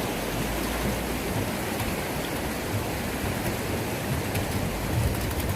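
Flowing water of a wide stream, a steady rushing that starts abruptly at a cut and runs on evenly.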